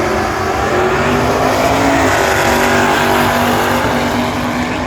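Two muscle cars, a Mopar and a Pontiac GTO, running their V8 engines hard at high revs on the drag strip, the engine pitch climbing and shifting as they accelerate.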